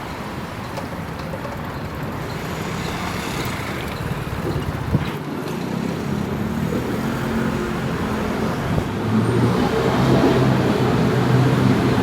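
Street traffic on wet roads after rain, with a motor vehicle's engine growing louder and nearer in the second half. A brief click about five seconds in.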